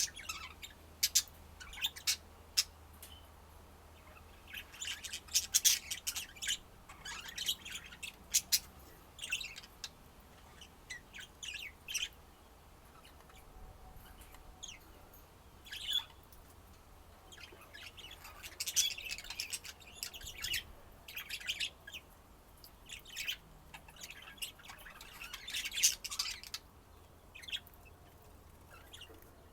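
Budgerigars chirping: quick runs of short, high chirps and squawks, coming in bunches with brief lulls between.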